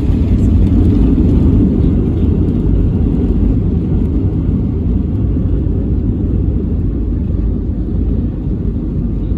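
Low, steady rumble of an airliner heard from inside the cabin during landing: engine and airframe noise. It eases off gradually over the stretch.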